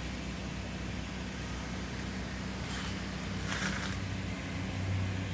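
A steady low mechanical hum, like a motor running, with a few brief scuffing noises.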